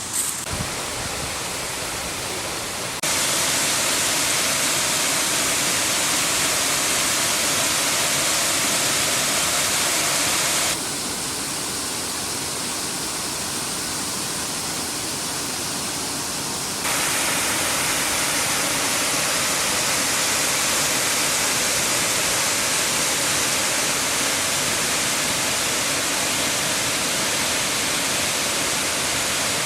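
Kent Falls waterfall, water pouring steadily in an even hiss across all pitches. The level steps up sharply about 3 seconds in, drops about 11 seconds in, and rises again about 17 seconds in.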